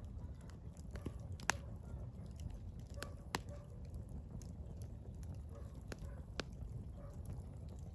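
Burning firewood crackling: scattered sharp pops and snaps, the loudest about a second and a half in and again past three seconds, over the low steady rumble of the flames.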